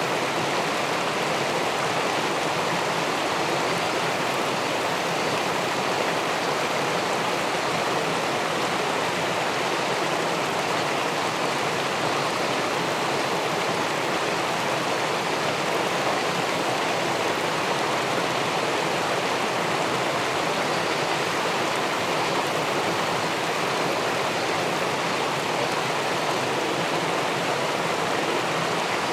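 Water pouring over a river weir into the pool below: a steady, even rushing with no breaks.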